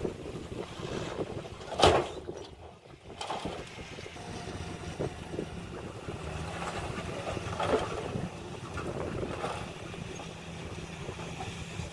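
Diesel engine of heavy earthmoving machinery running steadily, with one sharp metallic clank about two seconds in and lighter knocks and clanks throughout.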